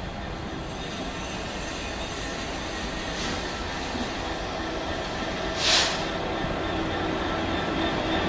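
A train running through the station, its steady rumble growing slowly louder, with faint high wheel squeal. A short, sharp hiss comes a little past halfway through.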